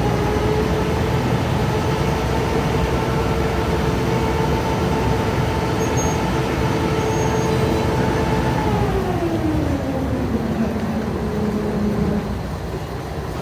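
Passenger ferry's engine running at raised revs with a steady drone over a broad rumble; about nine seconds in its pitch glides down and settles lower as the revs drop.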